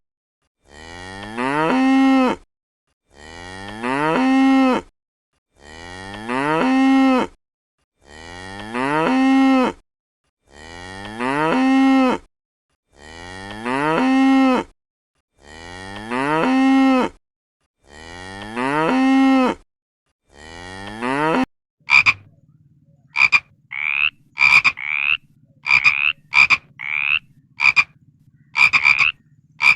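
A cow mooing, the same long moo repeated nine times about every 2.5 seconds, each call rising in pitch and loudness. About 22 seconds in it switches to another animal's short, rapid, high calls in quick succession.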